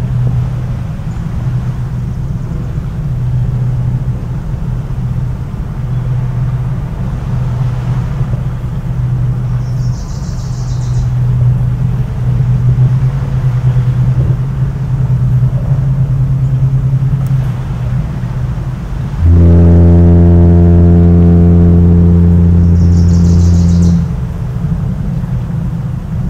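A foghorn sounds one long, low, steady blast of about five seconds, starting about 19 seconds in, over a continuous low rumble.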